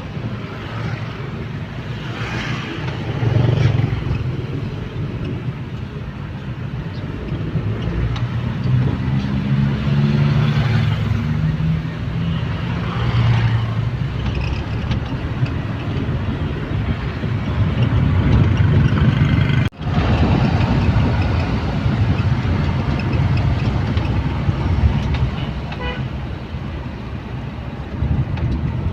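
Steady low rumble of a vehicle on the move, engine and road noise, with a short pitched tone like a horn toot near the end.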